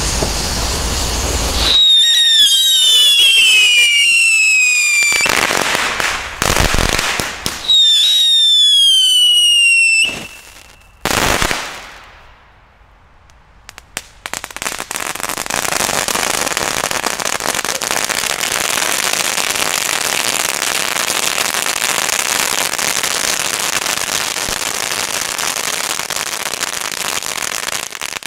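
Ground fireworks going off: a fountain hissing, then two loud whistles that each fall in pitch over two to three seconds, each followed by a loud rushing burst. After a short lull, a ground fountain sprays sparks with a long, steady crackling hiss.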